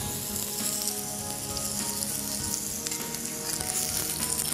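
Slices of zucchini sizzling steadily as they fry in a hot pan.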